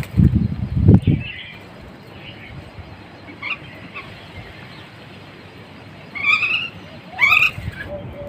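Small birds chirping: a few faint scattered chirps, then two louder rising calls about six and seven seconds in. Low rumbling bursts sit under the first second.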